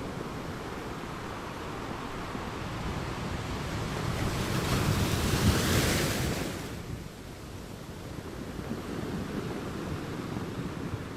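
Ocean surf on a beach: a steady wash that builds to one wave breaking about five seconds in, then eases back to a softer hiss.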